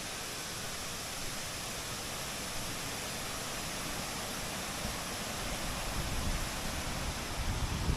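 Steady rushing of a flowing river, an even hiss. A low rumble rises in the second half.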